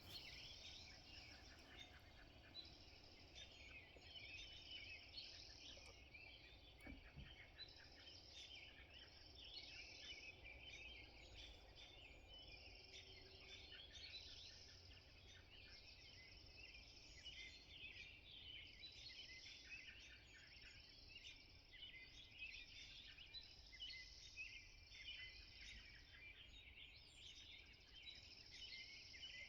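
Faint dawn chorus of many songbirds chirping and singing at once, with a high trill coming back every few seconds over a steady low background rumble.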